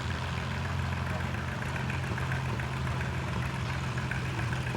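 Vintage farm tractor engine running steadily at low speed, a constant low hum.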